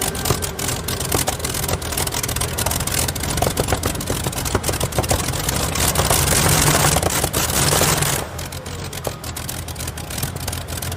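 Modified pulling tractor's engines running hard, a loud rumble with dense crackling that swells to its loudest about six seconds in, then drops back after about two seconds.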